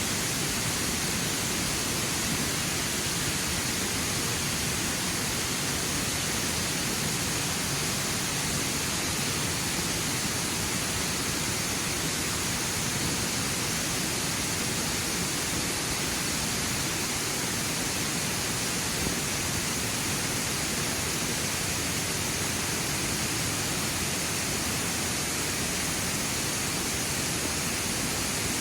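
Ryūsō-ga-taki waterfall: the steady rush of falling water, an even, unbroken noise with no changes.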